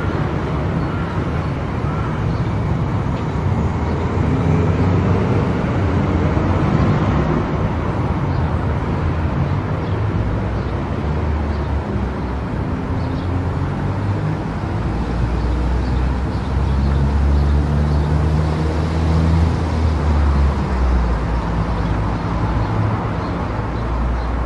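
A car driving along a road: steady engine and tyre rumble, strongest in the low end, with its pitch shifting a little as the speed changes.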